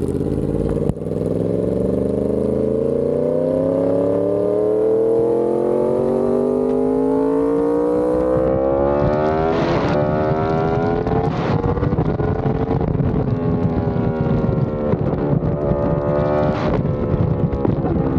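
Yamaha R1's inline-four engine through an SC-Project exhaust, pitch climbing steadily for about ten seconds as it pulls through the revs. It then runs on at high revs, with brief sharp breaks about ten, eleven and a half and seventeen seconds in.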